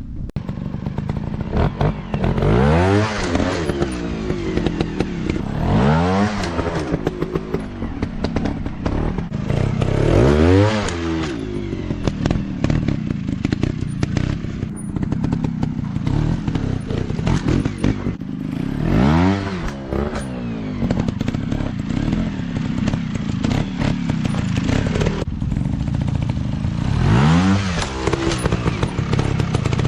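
Dirt bike engines running on a trail, surging up and falling back in pitch about five times as the throttle is opened and closed.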